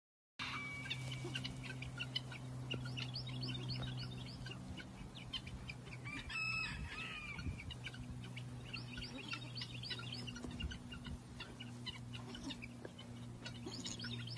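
Chicks peeping: many quick, high chirps in close succession over a steady low hum. About six and a half seconds in, a single louder call with several stacked tones stands out.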